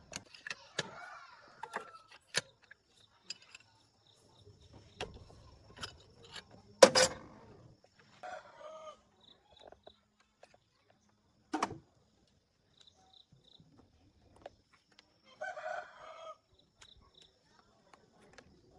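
Chickens calling, with a rooster crowing briefly about eight seconds in and again about fifteen seconds in. Scattered sharp knocks and clicks run between the calls; the loudest knock comes about seven seconds in.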